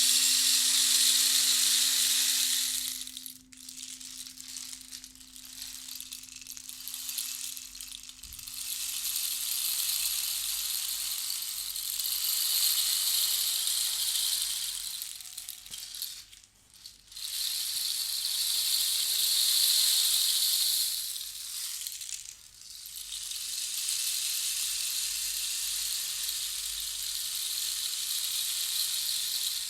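Long swells of rattling hiss from a shaken percussion instrument, each rising and fading over a few seconds, over the steady hum of a crystal singing bowl that dies away about halfway through.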